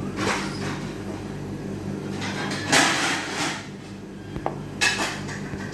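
Kitchen knife slicing raw chicken breast on a cutting board: a few separate scraping strokes, the longest and loudest about halfway through.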